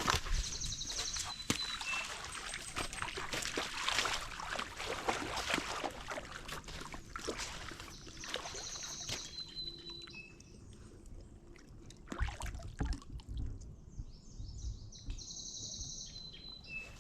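A songbird sings the same short, high phrase three times, about seven seconds apart: a buzzy note that slides down, then a brief lower note. Water splashes and trickles under it, most busily in the first half.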